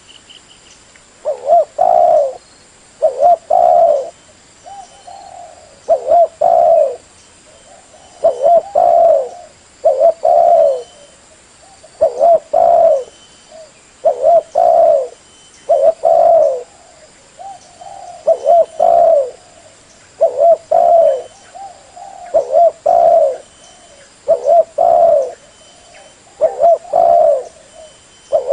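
Spotted dove (tekukur) cooing: a repeated phrase of a few low coos, about one phrase every two seconds. It is used as a lure call to attract other spotted doves.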